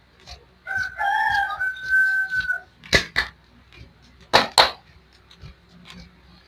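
A rooster crows once for about two seconds. Then come four sharp slaps in two quick pairs, hands striking the body in a percussive massage.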